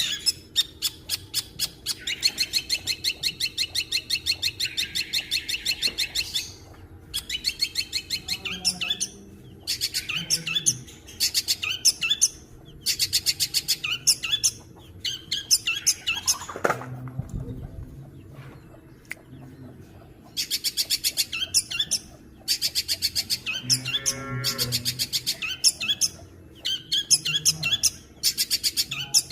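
Long-tailed shrike (cendet) singing in long bursts of rapid, evenly repeated high notes, with short pauses between the bursts. A steady low hum runs underneath, and about halfway through there is one falling sweep followed by a brief low sound.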